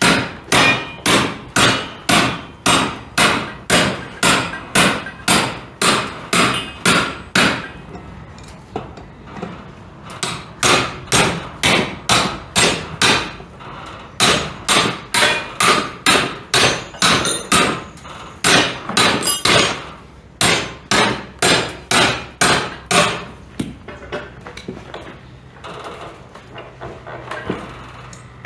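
Repeated hammer blows, about two a second, in long runs with short pauses, each strike sharp with a brief ring, driving a tight part loose while a sawmill is taken apart.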